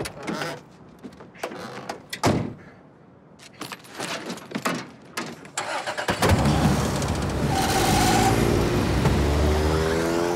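Clicks and knocks of someone getting into a Suzuki Esteem, with a loud thump about two seconds in. About six seconds in, the car's four-cylinder engine starts and runs, rising in pitch near the end as the car pulls away.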